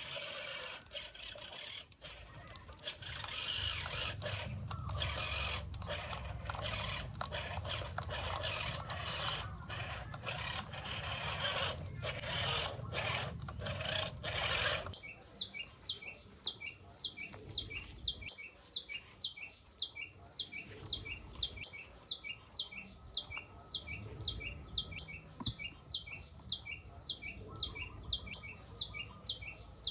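A loud rushing noise with a low rumble cuts off abruptly about halfway through. After it, a bird repeats a short two-part chirp evenly, about twice a second.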